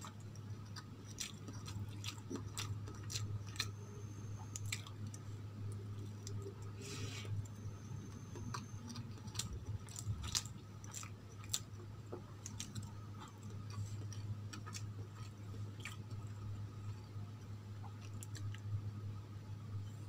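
Close-miked eating of soft idli dipped in sambar: wet chewing with irregular sharp mouth clicks and smacks, over a steady low hum.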